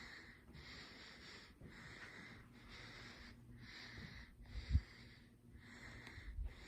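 Faint, steady breathing of the person holding the camera close to the microphone, each in and out breath about a second long. A single dull bump about three quarters of the way through.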